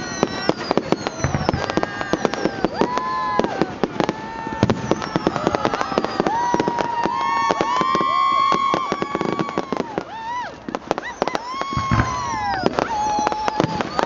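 Fireworks display: dense crackling bangs with a few deeper booms, and whistling fireworks whose shrill tones hold steady for a second or more, then fall away.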